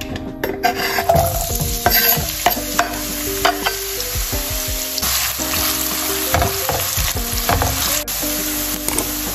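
Chopped onion sizzling in hot oil in a nonstick frying pan. The sizzle starts about half a second in as the onion goes in, then a silicone spatula stirs and knocks it around the pan while it fries. Soft background music plays underneath.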